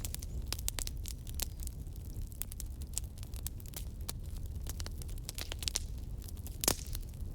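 Fire crackling in a fireplace: an irregular run of sharp pops and snaps over a steady low rumble, with the loudest pop about six and a half seconds in.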